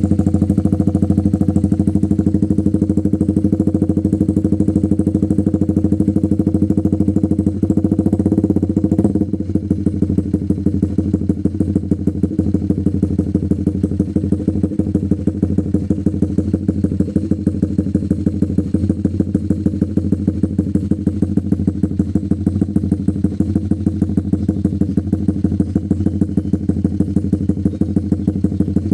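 Honda CB150R single-cylinder engine running through an aftermarket Mafia slip-on silencer and Proliner header, held at a slightly raised speed, then about nine seconds in dropping back to a steady idle with an even exhaust pulse.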